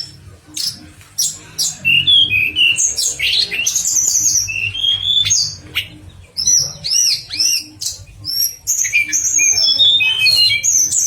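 A tledekan (blue flycatcher) singing a rapid, varied song of chirps, short trills and arched whistled notes, in quick phrases with brief pauses, over a low steady background hum.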